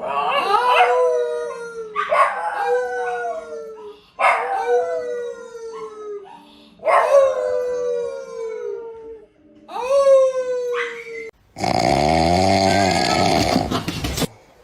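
Dog howling: five drawn-out howls about two seconds apart, each starting high and sliding down in pitch. Near the end a different, rough, noisy sound takes over.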